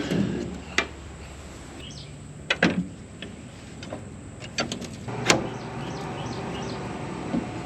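A few separate sharp metal clicks and clanks from hand tools and parts on a combine being worked on, the loudest a little past halfway, with a low steady hum setting in around the same time.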